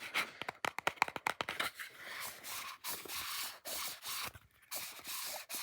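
A small object handled close to the microphone: a quick run of sharp taps or clicks, then several rubbing, scraping strokes, each about half a second to a second long.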